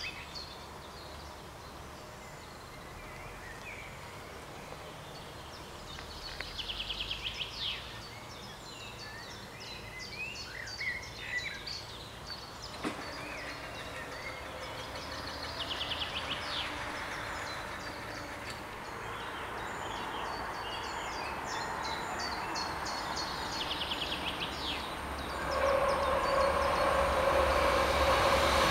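Birds singing over quiet rural ambience, then a DB Talent diesel railcar approaching, its engine and rail noise building steadily over the last few seconds.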